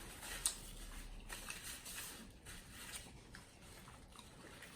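Faint close-up eating and handling noises: crinkly rustling with scattered small clicks, the sharpest about half a second in.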